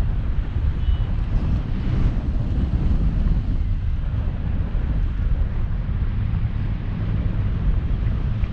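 Wind buffeting the microphone during a paragliding flight: a loud, steady, low rumble that flutters unevenly, with no engine or voices.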